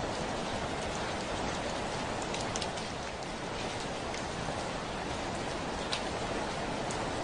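Heavy rain falling on a window: a steady even hiss, with a few sharper drop ticks standing out now and then.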